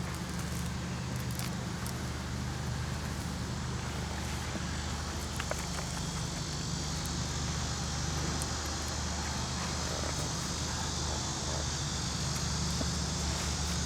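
Steady low mechanical hum, a continuous drone, over outdoor ambience with a faint steady high-pitched hiss and a few small clicks.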